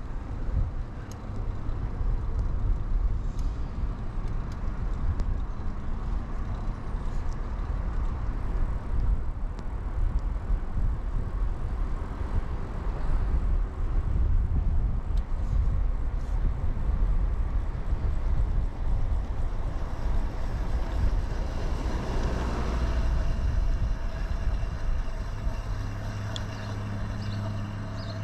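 Wind buffeting and tyre rumble from a moving bicycle, a 2000 Kona Blast mountain bike, picked up by a chest-mounted action camera. The rumble swells about three-quarters through, and near the end a steady low hum comes in as the level drops a little.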